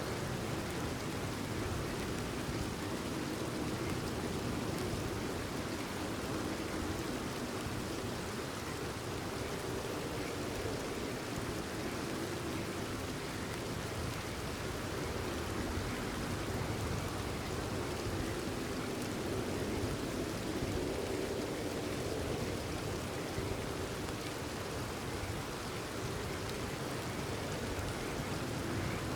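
Steady rain falling, an even continuous hiss of drops with no breaks.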